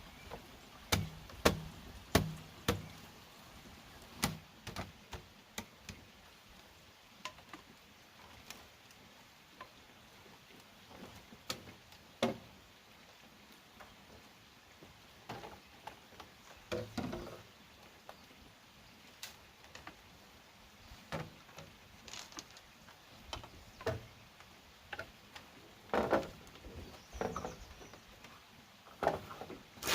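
Irregular knocks and sharp taps of bamboo being handled and set in place, a few strokes every second or two, louder clusters near the start and again near the end.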